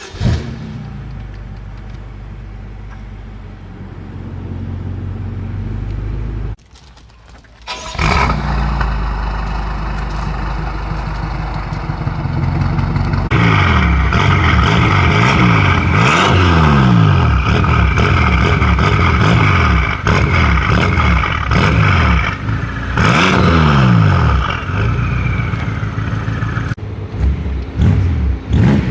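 BMW M5's twin-turbo V8, tuned to about 850 hp, starting up and running at a steady idle. It goes quiet for a moment, then starts again. Through the second half it is revved over and over, the pitch climbing and falling with each blip.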